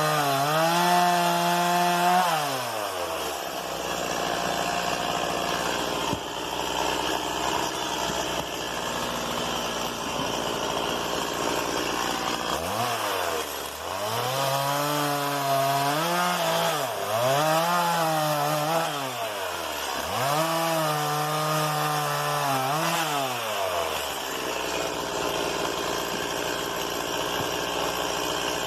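Stihl MS 170 two-stroke chainsaw at full throttle, then cutting through wood for several seconds, the engine note buried under the noise of the chain in the wood. Midway it is revved up and down about four times, then it cuts again near the end.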